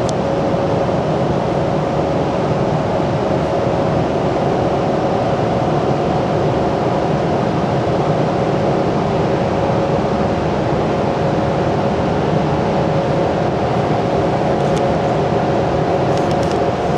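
A machine running steadily: a constant, even noise with a steady two-note hum that does not change.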